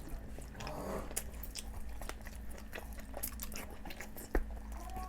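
Close-up chewing and biting of a meal of boiled eggs and chicken curry, with frequent short wet mouth clicks and smacks, a louder one near the end, over a steady low hum.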